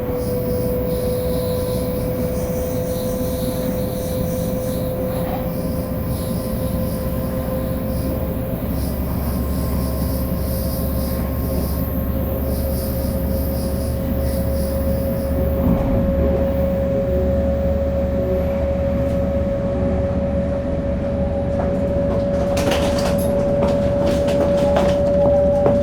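Shinkansen 500 series train running, heard from inside the car: the Toshiba GTO-VVVF inverter's steady whine rises slowly in pitch as the train gathers speed, over wheel and track rumble. A few sharp clicks come near the end.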